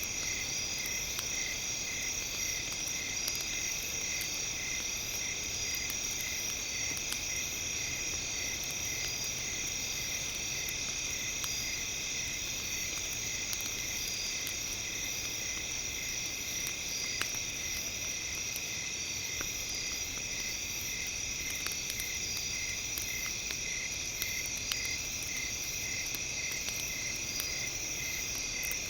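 Steady high-pitched chirring of night insects such as crickets, with a regular pulse about twice a second, over faint sparse crackles of a campfire.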